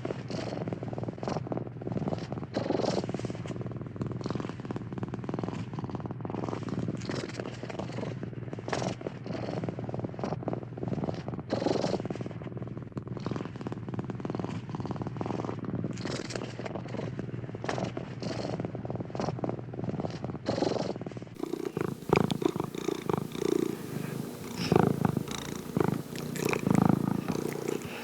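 Domestic cat purring steadily, swelling and easing in waves with each breath. About three-quarters of the way through, the recording changes to a louder, more uneven purr.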